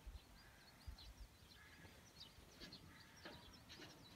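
Near silence with faint, scattered bird chirps throughout.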